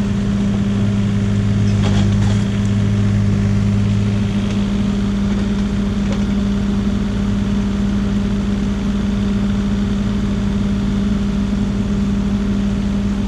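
Excavator's diesel engine running steadily, its low hum easing a little about four seconds in, with a few faint knocks about two seconds in.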